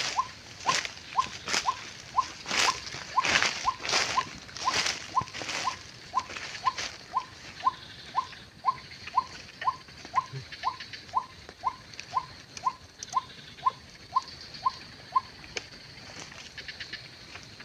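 White-breasted waterhen calling: harsh, raspy notes at first, then a long, even run of short single notes, about two a second, that stops about 15 seconds in.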